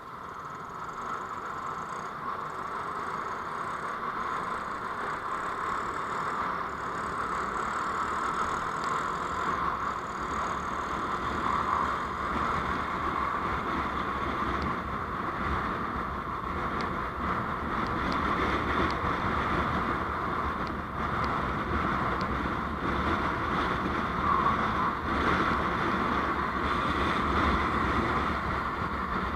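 Steady noise of a vehicle under way on the road, a mix of engine, tyre and wind noise that grows gradually louder.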